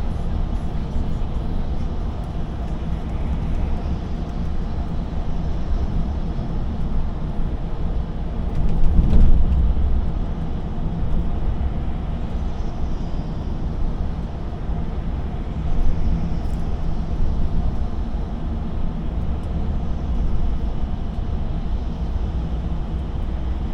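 Lorry engine and road noise heard inside the cab while driving: a steady low rumble, swelling louder for a moment about nine seconds in.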